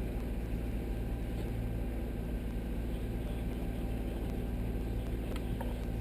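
Sailing yacht's inboard engine running steadily at a constant low hum.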